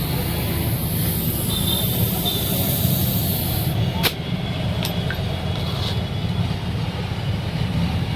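Steady low rumble of vehicles or traffic, with two sharp clicks about four and five seconds in.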